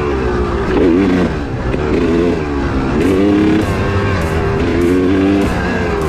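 Two-stroke dirt bike engine of a 2002 Honda CR250 revving up and down as it rides the track, with background music laid over it; a steady beat comes in about halfway.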